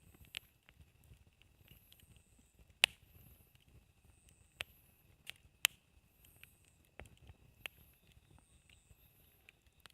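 Campfire wood crackling, with irregular sharp pops; the loudest come about three and five and a half seconds in.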